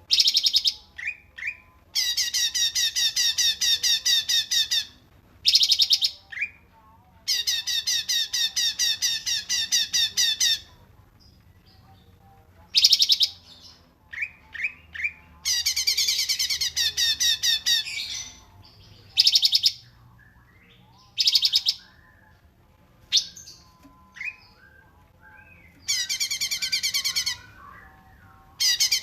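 A songbird singing loud, rapid rattling trills, each lasting one to three seconds, repeated about half a dozen times with short chirps and pauses between.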